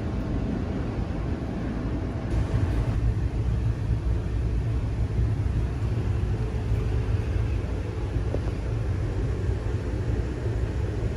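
Steady low rumble of a passenger train running at speed, heard from inside the coach, growing a little louder about two seconds in.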